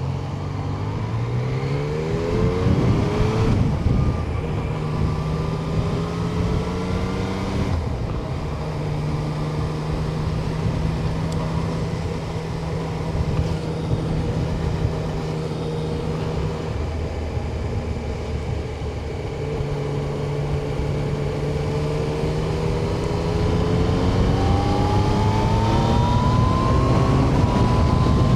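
Yamaha Tracer 900's three-cylinder engine under way, heard from the rider's seat. It pulls up through the revs with gear changes in the first few seconds, holds a steady cruise, eases off briefly past the middle, then accelerates again near the end, over wind and road noise.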